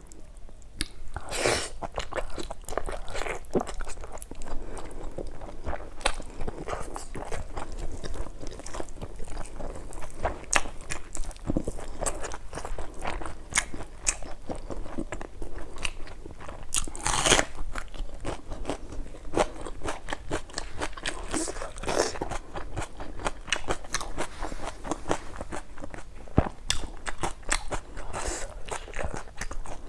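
Chewing and crunching of fried chicken innards (intestines, gizzard, liver) with rice: an irregular, continuous run of crunches and mouth clicks, with a louder crunch about a second and a half in and another about halfway through.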